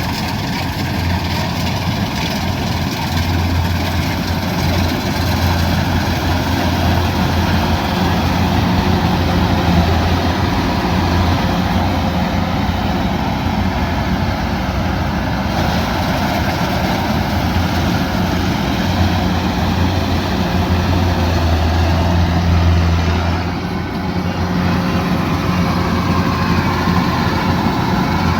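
Kubota DC108X combine harvester running, its diesel engine a steady low drone with a short dip about three-quarters of the way through.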